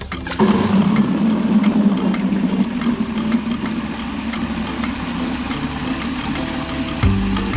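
A small engine running steadily, starting abruptly about half a second in.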